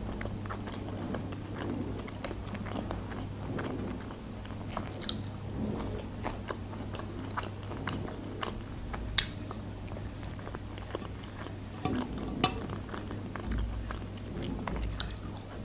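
A person chewing and biting fried fast food: chicken nuggets and potato wedges dipped in sauce. Soft wet mouth sounds run through it, with scattered small clicks and a few sharper ones.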